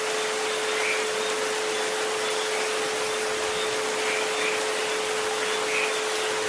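Steady rain hiss with two continuous pure tones held underneath, the 432 Hz and 528 Hz sleep frequencies, the lower one louder.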